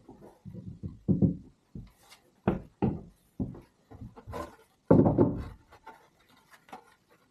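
A string of irregular knocks and thumps in a small room, some dull and some sharper, the loudest and longest about five seconds in.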